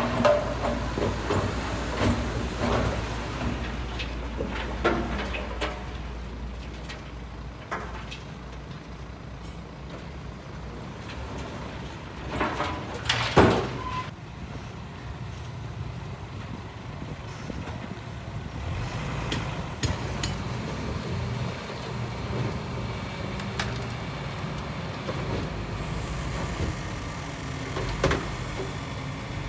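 Heavy diesel earthmoving machinery running with a steady low rumble, with scattered metallic clanks and knocks and one loud clank about thirteen seconds in.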